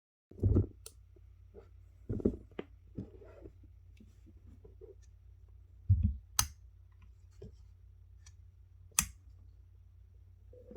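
Close-up handling sounds of unpacking: a few dull thumps and scrapes, with two sharp clicks, one about six and a half seconds in and one about nine seconds in.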